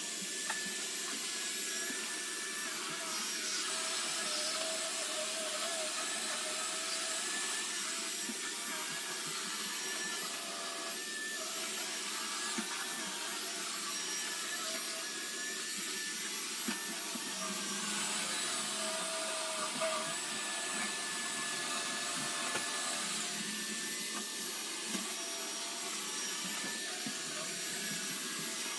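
iRobot Roomba robot vacuum running steadily, its motor whirring with pitch that wavers as it moves, and occasional brief clicks as it bumps or rolls over things. The audio is played at four times speed.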